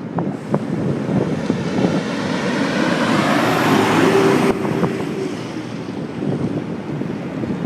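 Wind buffeting and rattling on a handlebar-mounted phone microphone while riding a bicycle, with scattered small knocks. Traffic noise swells to a peak about four and a half seconds in, then drops off suddenly.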